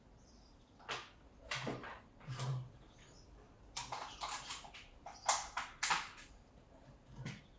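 Hands handling monitor parts and packaging: a series of irregular knocks, clicks and rattles of plastic, with a few dull thuds early on and a quick run of sharp clicks in the second half, the loudest near the end of that run.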